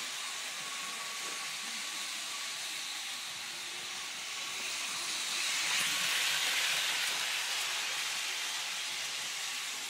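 Märklin model trains running on the layout: a steady hissing rush of wheels and motors that swells a little about halfway through. A faint high whine is heard in the first couple of seconds.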